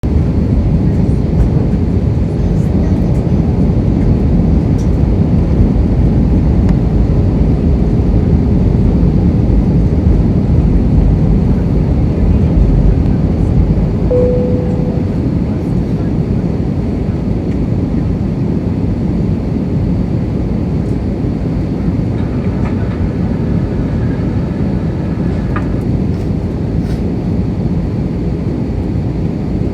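Steady cabin noise of an Airbus A320 in descent: the rush of air and the low drone of its IAE V2500 turbofans, heard from inside the passenger cabin. It eases slightly about halfway through, and a brief single tone sounds near the middle.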